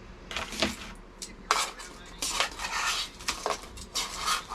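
Cutlery clinking and scraping against plates and bowls as food is served, in a run of short, uneven clatters.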